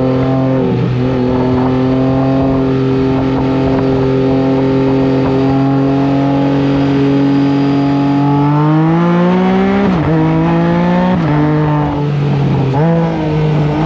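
Can-Am Spyder F3-S three-wheeler's three-cylinder engine running at a steady speed, then accelerating hard: the engine note climbs and drops back three times in quick succession as it shifts up through the gears.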